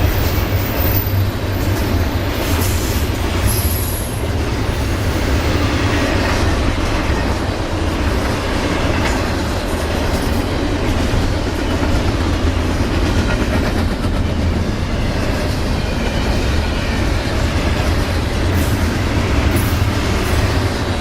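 Railroad cars rolling steadily past, their wheels clacking over the rail joints, with a brief faint high wheel squeal a few seconds in and again near the end.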